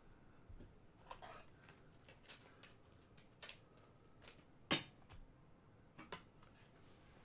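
Trading-card packs and cards being handled on a table: scattered soft clicks and rustles, with one sharper click about two-thirds of the way through.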